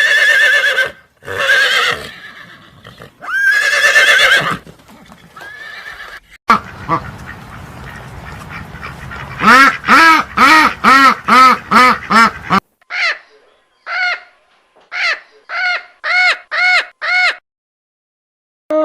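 Farm animal calls in sequence: a few horse whinnies, then ducks quacking in a quick run of about seven short calls, followed by a slower string of single quacks.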